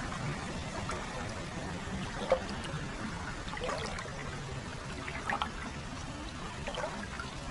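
Hot-spring water pouring and trickling into a foot bath: a steady flow with scattered small splashes, one sharper splash a little over two seconds in.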